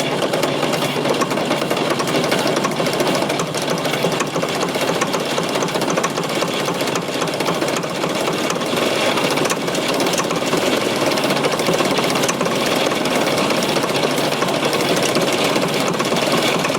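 Fordson Super Major's 3.6-litre four-cylinder diesel being cranked on the starter, turning over steadily with a fast even beat, getting fuel but not yet running on its own.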